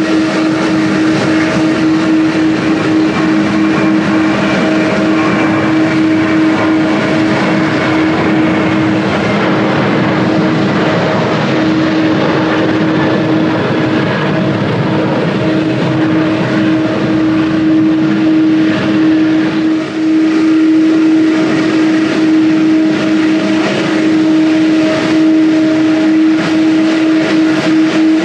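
Jet airliner engines running steadily: a loud, continuous noise with a steady hum that does not rise or fall.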